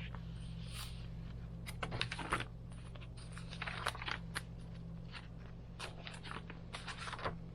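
Paper and card pages of a handmade junk journal being turned and handled: a string of short rustles, crinkles and light taps, over a steady low hum.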